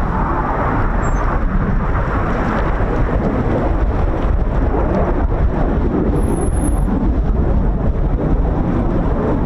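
Strong wind buffeting the microphone as a low rumble, over the steady roar of the Red Arrows' BAE Hawk T1 jets, loudest at the start.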